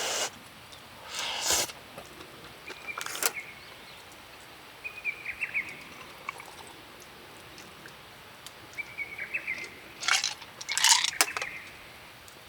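Small birds calling in short trilled chirps, a few times. Several brief, louder bursts of noisy scraping or clatter come between them, the loudest cluster near the end.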